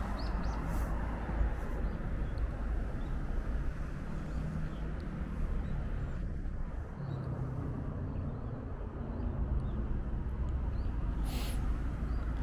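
Outdoor ambience: a steady low rumble with faint high chirps, and a brief hiss about eleven seconds in.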